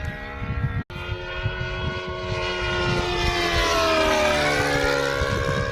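Glow-engine RC model of the Shinden fighter flying, its small engine running at a steady high buzz. It grows louder toward about four seconds in and the pitch falls as it passes by. Gusty wind rumbles on the microphone.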